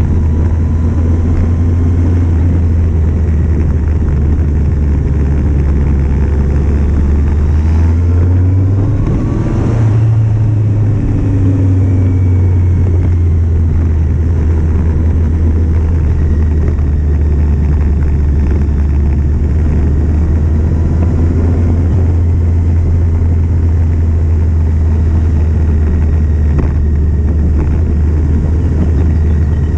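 Kawasaki Z750's inline-four engine running steadily under way, with heavy wind rumble. About nine seconds in, the engine pitch rises briefly and then falls back.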